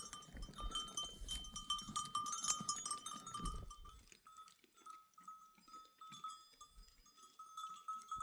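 Bells on a herd of livestock clinking over and over as the animals move, with trampling and rustling underfoot that fades out about halfway through.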